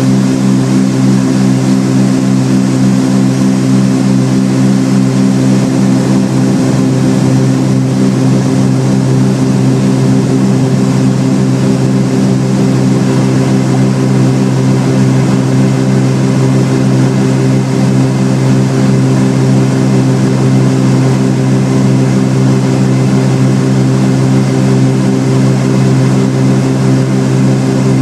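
Cessna 310R's twin six-cylinder piston engines and propellers running at a steady, unchanging speed, giving a constant loud drone.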